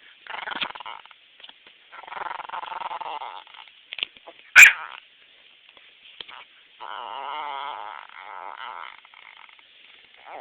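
Pet dog making weird growling noises: several drawn-out, wavering grumbles of one to two seconds each. A single sharp, loud crack about four and a half seconds in is the loudest sound.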